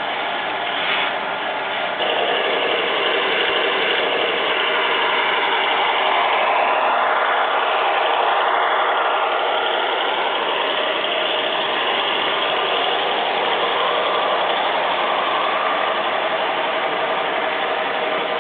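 A model train, an E7A diesel locomotive model pulling passenger cars, running along the track: a continuous mechanical whir and rattle of motor, gears and wheels, with a couple of brief squealing glides around the middle.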